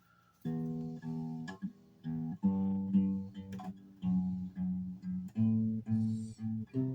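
Guitar playing a slow line of single plucked notes, one after another, starting about half a second in.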